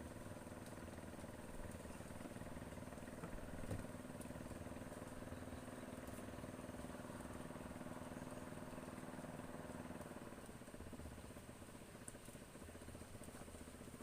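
Faint, steady engine drone that eases off about ten seconds in.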